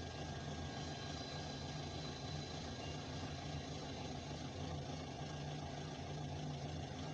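Steady low engine hum heard from inside a stopped car, even and unchanging.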